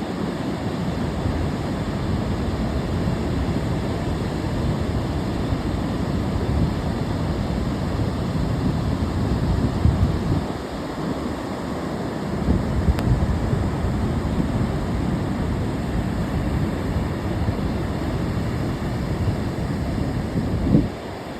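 Ocean surf breaking and washing in steadily, with wind rumbling on the microphone; a short lull about halfway through.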